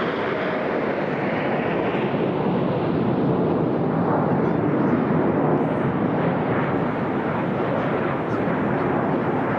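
Jet noise from the Red Arrows' formation of BAE Hawk T1 trainers flying past: a steady rushing sound that swells slightly around the middle.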